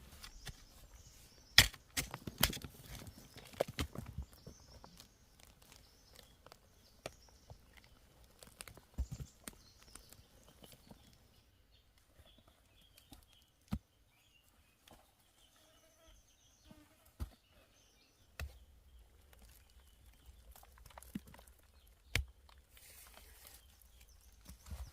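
Sharp knocks and thuds at irregular intervals, several close together in the first few seconds, then single ones a few seconds apart, over quiet outdoor background.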